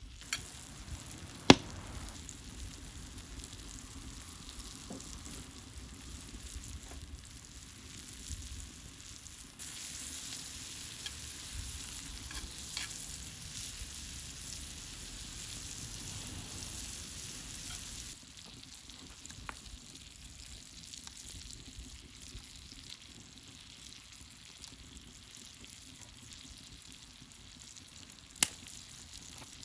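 Food frying on a hot iron plate, a steady sizzle that grows louder for several seconds in the middle and then dies down. Two sharp clicks, one about a second and a half in and one near the end.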